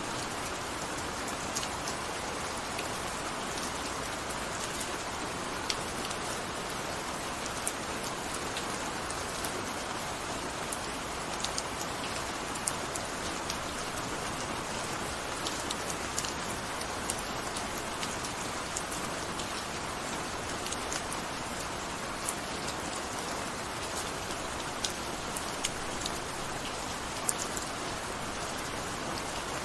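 Gentle steady rain: an even hiss of rainfall with many separate drops ticking on a surface.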